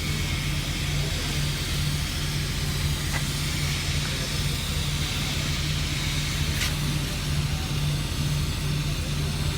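Steady low drone of running machinery with a constant hiss over it, a faint click about three seconds in and a brief sharp sound near the seven-second mark.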